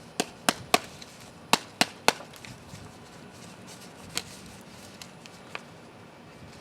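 Plant pot being knocked to loosen a root-bound plant's root ball: two quick sets of three sharp knocks, then two fainter ones later on.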